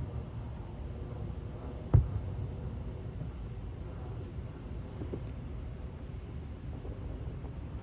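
One sharp firework boom about two seconds in, with fainter thumps at the start and about five seconds in. Under them runs a steady high insect song that stops near the end, over a low rumble.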